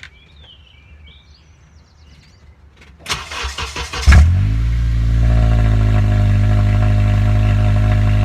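Honda Accord engine with its muffler cut off, cold-started. The starter cranks for about a second, the engine catches with a loud burst about four seconds in, then settles into a loud, steady idle as the revs ease down from the start-up flare.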